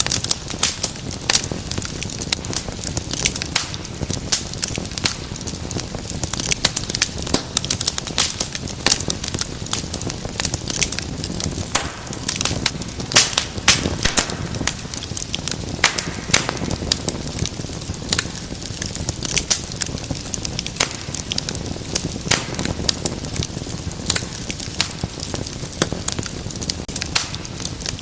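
Wood fire in a fireplace crackling and popping, with many irregular sharp snaps over a steady low rush of flame.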